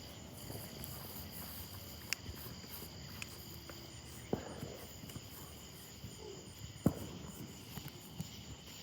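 Crickets chirping steadily in a fast, high-pitched trill. A few sharp pops break through, the loudest about seven seconds in.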